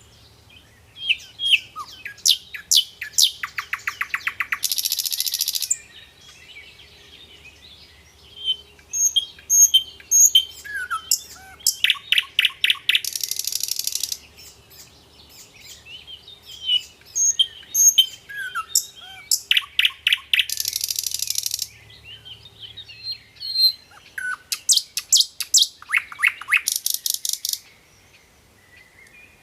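A songbird singing, in repeated phrases of high chirps, rapid trills and buzzy notes, with a phrase group coming roughly every eight seconds.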